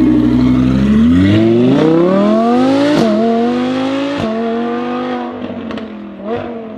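Sports car engine accelerating hard, its pitch climbing through the revs with quick gear shifts about three and four seconds in, then easing off and fading. A few sharp pops come near the end.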